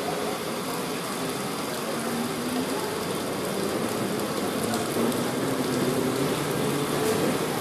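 Steady rushing noise of a Mumbai suburban local train running, heard from aboard, mixed with falling rain.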